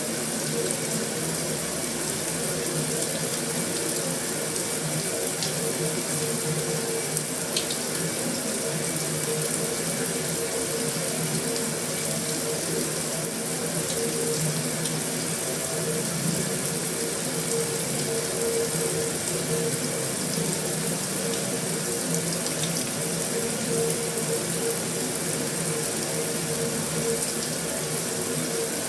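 Heavy rain falling steadily on a metal roof: a dense, even hiss with a few faint ticks, and a faint steady hum underneath.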